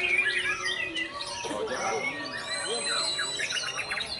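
White-rumped shama (murai batu) singing a varied song of clear whistles, rising and falling glides and quick chirping runs.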